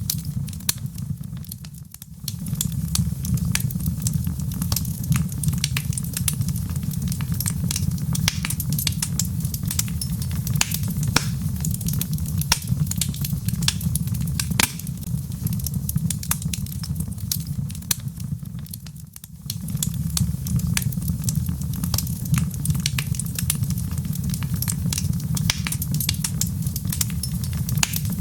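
Wood logs burning in a fireplace, with irregular sharp crackles and pops over a steady low rumble. The whole sound dips briefly about two seconds in and again near nineteen seconds.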